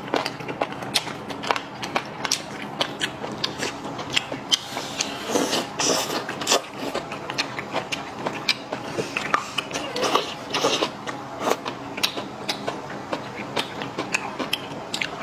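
Close-up eating sounds: irregular chewing, crunching and sharp clicks that come several times a second.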